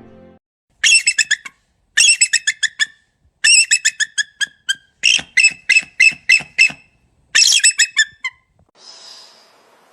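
A bird calling in five bursts of fast, repeated high-pitched notes, each burst lasting about a second, followed by a faint hiss near the end.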